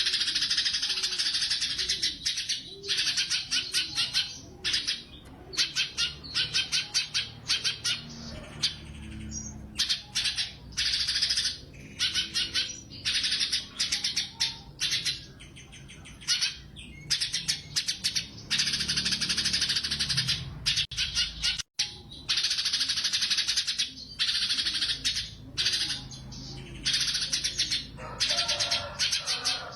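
Cucak cungkok singing without pause: fast, chattering trilled phrases about a second long, one after another with short gaps, in the rapid 'tembakan' style of a bird in full song.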